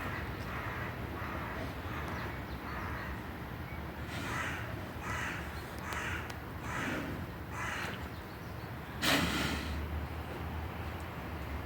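A crow cawing in a repeated series: a fainter run of caws first, then five louder caws each under a second apart, and about nine seconds in one louder, harsher call, the loudest sound. A steady low rumble runs underneath.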